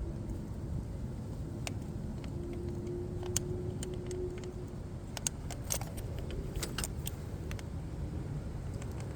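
Steady low rumble with a scatter of light metallic clicks and jingles through the middle.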